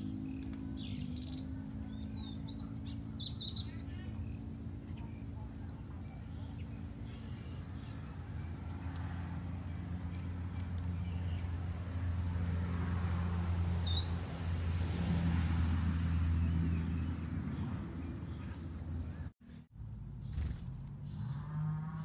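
Scattered short, high bird chirps, a few at a time, over a steady low hum and a continuous thin high-pitched whine. The sound cuts out briefly near the end.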